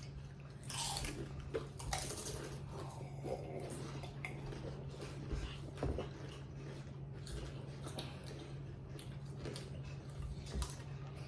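People biting and chewing Doritos tortilla chips: scattered faint crunches over a steady low hum.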